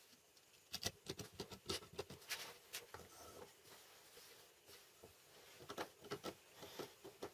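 Two bursts of quick, light taps and clicks, the first starting about a second in and the second near the end.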